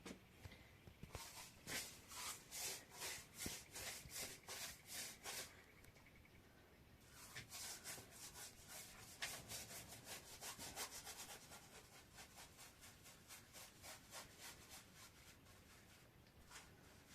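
Repeated rubbing or scraping strokes, about two a second, then after a short pause a faster run of lighter strokes.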